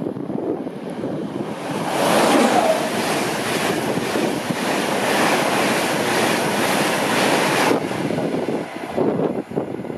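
InterCity 225 express passing at speed, a Virgin Trains East Coast set with its Class 91 electric locomotive at the rear. A loud rush of wheels and air builds from about two seconds in and cuts off sharply near the end as the locomotive goes by. Wind buffets the microphone throughout.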